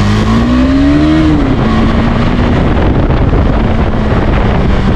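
KTM 390 Adventure's single-cylinder engine under way: its pitch rises for about a second as it accelerates, then drops back and holds steady. Heavy wind noise on the microphone runs under it.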